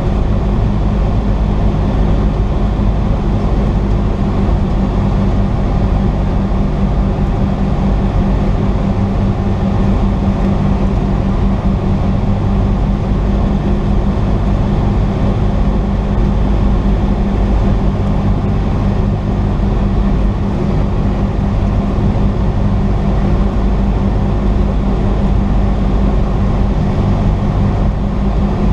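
Cessna 172's piston engine and propeller running at a steady power setting, a constant low drone with no change in pitch.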